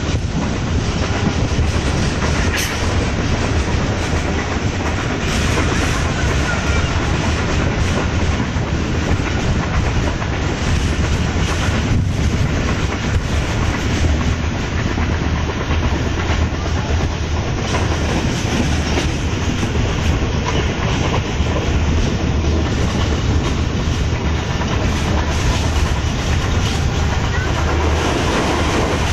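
Passenger train running at speed, a steady heavy rumble and rush of wheels on the rails with some clatter, heard from aboard the moving train.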